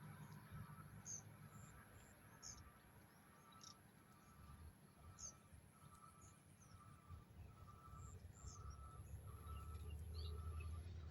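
Faint outdoor insect and bird ambience: a steady high-pitched insect drone, a pulsing call repeated about every two-thirds of a second, and scattered short bird chirps, over a low rumble that grows near the end.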